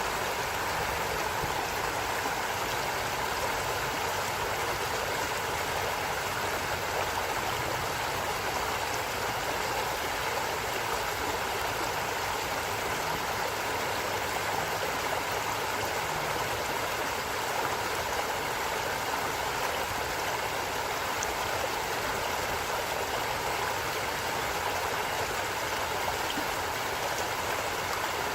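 A stream of water running steadily, a constant even rushing with no breaks or changes.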